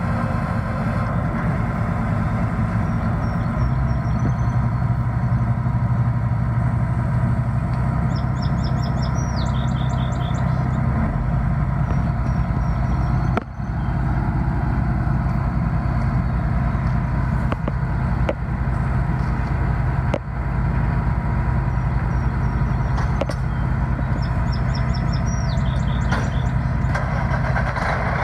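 Heavy diesel engine running steadily with a low, even drone. A short high chirping phrase sounds twice over it.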